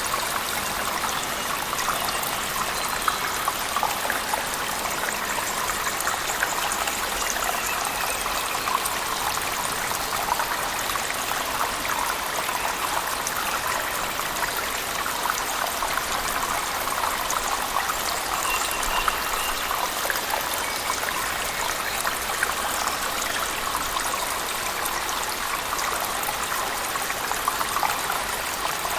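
Cave waterfall mixed with heavy rain: a steady rush of falling water with many small splashes and drips through it, holding an even level.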